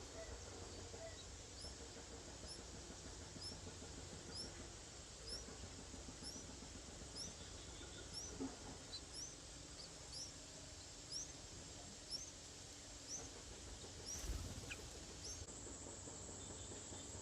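A bird's thin, high chirp, a short upward note repeated about once a second over steady background hiss, with a brief knock near the end.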